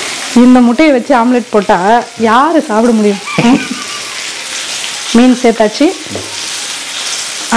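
Food sizzling as it fries in a pan, a steady crackling hiss. A person's voice comes over it in two short stretches, near the start and again about five seconds in.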